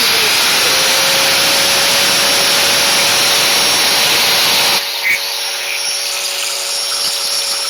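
Electric power cutting tool with a steady motor whine, cutting through the welds on a steel exhaust-pipe end cap with a loud grinding hiss. About five seconds in the cutting eases off and the tool runs on more quietly.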